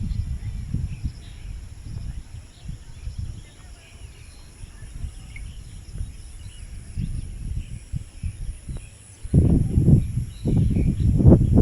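Outdoor nature ambience: faint scattered bird chirps and a steady high insect drone over a low, uneven rumble of wind on the microphone. The wind rumble grows much louder in gusts in the last couple of seconds.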